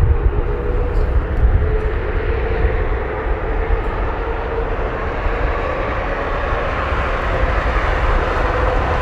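Boeing 777-200ER's twin Rolls-Royce Trent 892 jet engines at takeoff power: a loud, steady rumbling roar with a faint held whine in it.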